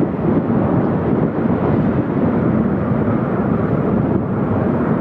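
Steady rumbling roar of military aircraft engines in a flypast, mixed with wind on the microphone.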